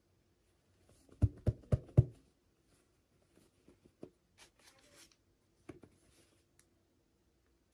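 Hands handling toy packaging: four quick knocks in a row about a second in, then light rustling and small clicks.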